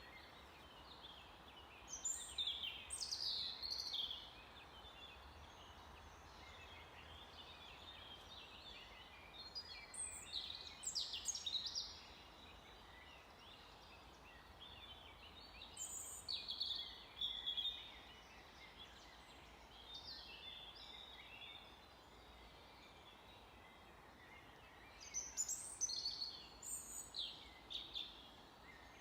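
Songbirds singing in short bouts of high chirps and trills every few seconds over a faint steady background hiss.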